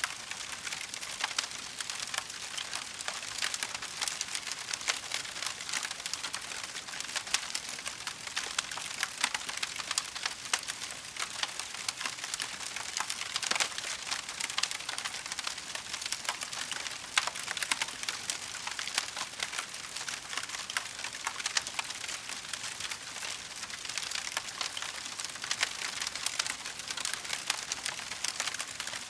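Wood fire crackling: a dense run of small pops and ticks with an occasional louder snap.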